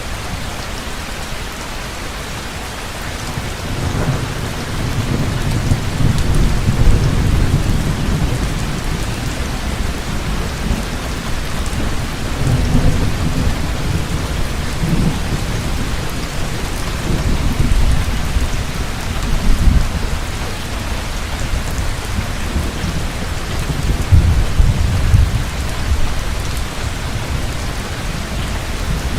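Heavy rain falling steadily, with rolling thunder rumbling in low swells that start a few seconds in and come and go repeatedly.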